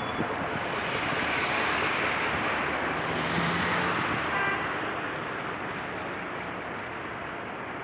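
VW Transporter T4's 2.4-litre AAB five-cylinder diesel engine running. It grows louder from about a second in, then eases back to a steadier run about halfway through.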